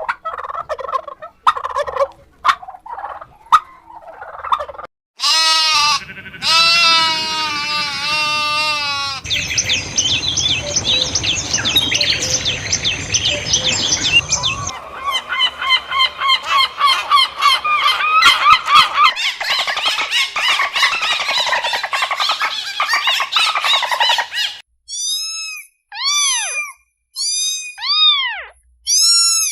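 Farmyard bird calls, several different ones in turn: sharp pitched calls and rapid chattering, then about five short rising-and-falling calls near the end.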